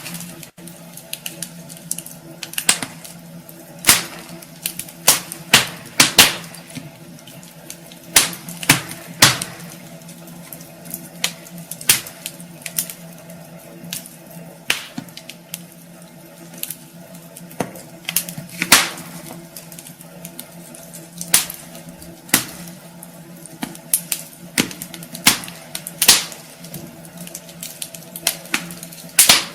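Wood fire burning in a fireplace, crackling with irregular sharp pops and snaps, often several a second and sometimes a few seconds apart, over a faint steady low hum.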